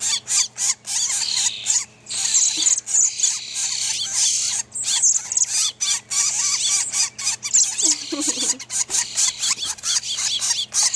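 Nestling flickers begging: a dense, rapid chatter of high-pitched calls that keeps going with only short breaks.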